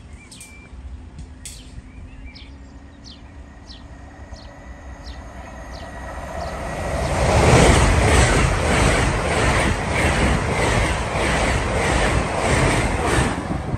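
LNER Azuma high-speed electric train approaching and passing close by at speed. Its sound swells about six seconds in, then stays loud with a regular beat of wheels on the rails before dropping away near the end.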